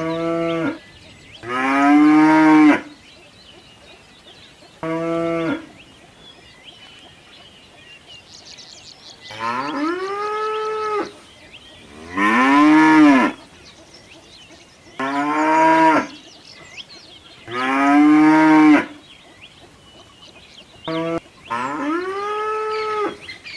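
Cattle mooing: a series of about eight drawn-out calls, each a second or so long, with short pauses between.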